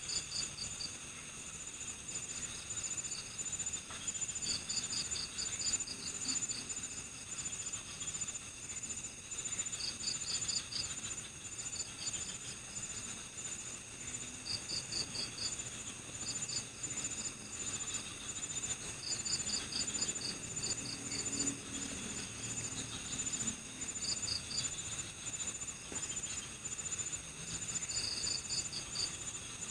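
Night-time chorus of crickets and other insects in a forest: a steady, rapidly pulsing high trill, overlaid by short trains of chirps from another cricket that repeat every second or two.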